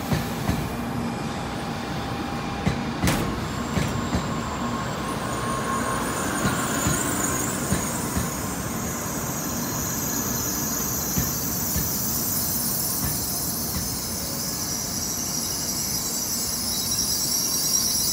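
N700A Shinkansen train rolling slowly past with a steady rumble and repeated wheel clacks. A high-pitched squeal of wheels and brakes comes in about five seconds in and grows louder toward the end as the train slows into the station.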